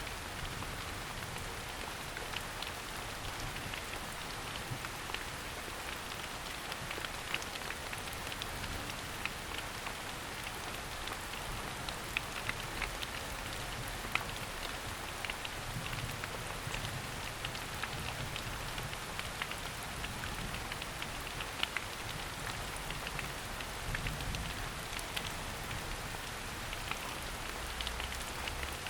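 Steady rain falling on a forest, with many separate drops ticking close by over an even hiss.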